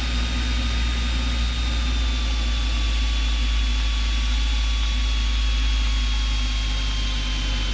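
Cessna 172's piston engine and propeller in cruise, a steady low drone with a faint high whine sliding slightly down in pitch, as heard through the cockpit intercom feed.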